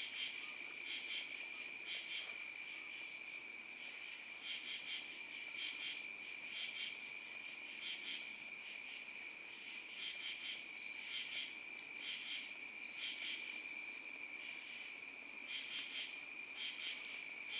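Night insects calling: a steady high-pitched trill under short pulsed chirps that repeat about once a second, pausing now and then.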